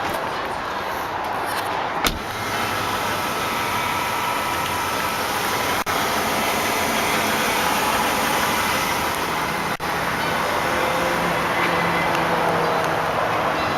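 Steady motor-vehicle noise, with a single sharp click about two seconds in and two very brief dropouts.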